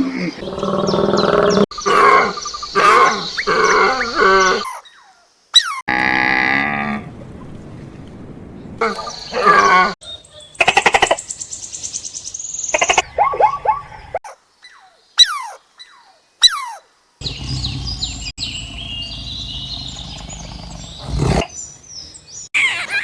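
A run of different animal calls, one short call after another, with sudden breaks between them.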